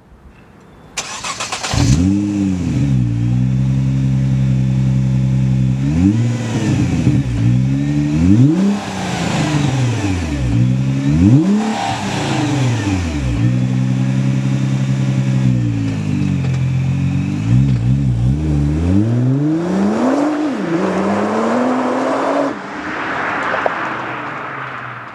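2009 Nissan GT-R's twin-turbo 3.8-litre V6 through a MagnaFlow aftermarket exhaust. It starts about two seconds in, flares and settles to a steady idle, then is revved in repeated quick throttle blips with idle in between. Near the end the idle drops away and a rougher rising sound follows, then fades as the car moves off.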